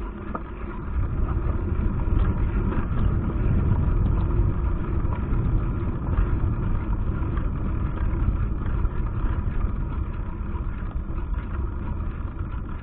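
Wind buffeting a handlebar-mounted action camera's microphone while the bicycle rides along, with rumble from the tyres on the road. It rises about a second in and then holds steady.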